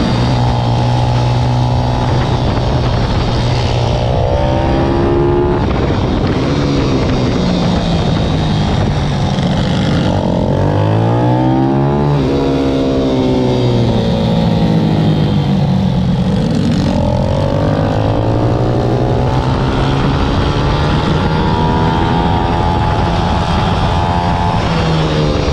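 Pit bike's small single-cylinder four-stroke engine running hard, its revs climbing and dropping again and again, with a deep fall and fresh climb about eleven seconds in.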